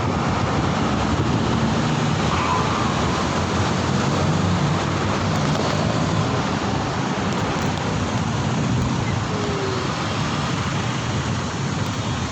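Steady wind and road noise from a moving ride, with a low vehicle hum underneath and no sharp events.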